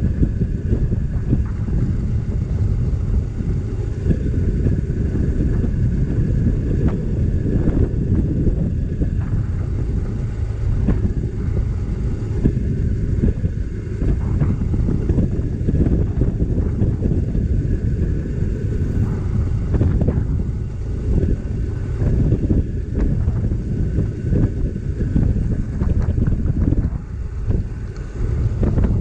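Wind buffeting the microphone of a moving motorcycle, over the engine's steady running.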